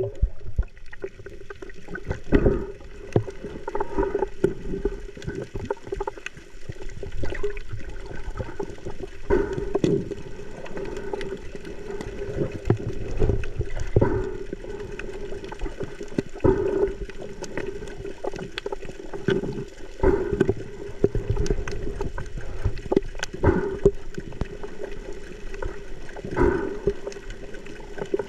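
Water sloshing and gurgling with irregular knocks and splashes over a steady low hum.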